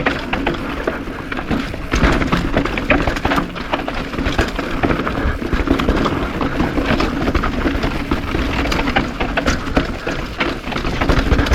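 Downhill mountain bike ridden fast over a dry, rocky dirt trail: tyres rolling and crunching on dirt and rock under a steady low rumble, with frequent knocks and rattles from the bike over bumps.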